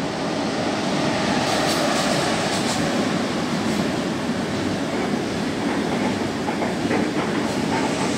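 Double-deck TGV high-speed train rolling through the station, a steady loud rumble of wheels on rail with a few faint clicks about two seconds in.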